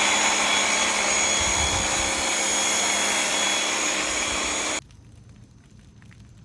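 An electric motor-driven machine spinning up with a rising whine, then running steadily with a high whine over a rushing noise, and stopping suddenly about five seconds in.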